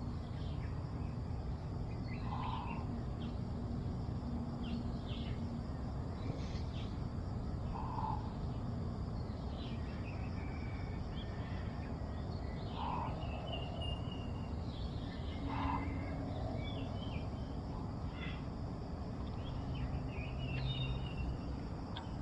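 Birds chirping and calling now and then over a steady low background noise of outdoor ambience, with a short lower call coming back a few times.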